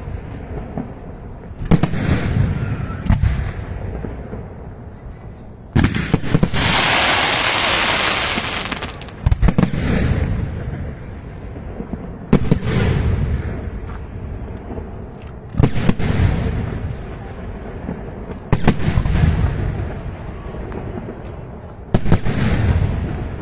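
Fireworks going off: a sharp bang about every three seconds, each trailing off in a low rumble, with a loud hissing rush for about three seconds starting about six seconds in.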